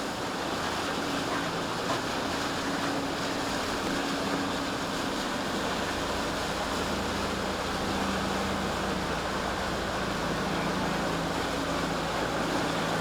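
Boat engines running steadily with a low hum, over the wash of surf and wind noise on the microphone.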